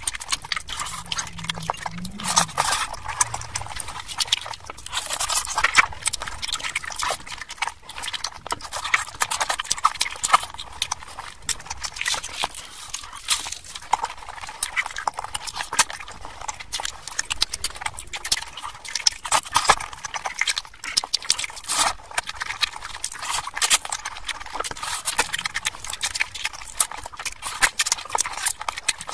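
Close-miked ASMR eating sounds: wet chewing, lip smacking and mouth clicks from eating mutton curry with luchi, a steady stream of quick crackly clicks.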